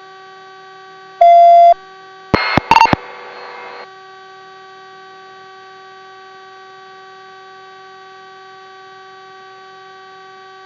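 Steady electrical hum of a police helicopter's radio and intercom audio, with a loud beep tone lasting about half a second a little over a second in. Then comes a quick crackle of clicks and a burst of static hiss, which stops about four seconds in.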